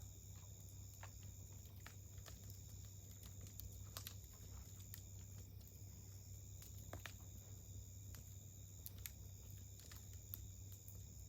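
Wood fire crackling faintly, with irregular small pops and snaps of burning wood scattered throughout. Underneath, a steady high-pitched tone and a low hum.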